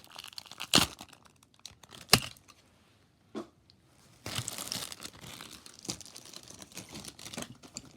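Plastic packaging of a pack of pencils being handled and torn open: two sharp clicks in the first couple of seconds, then a few seconds of crinkling and tearing.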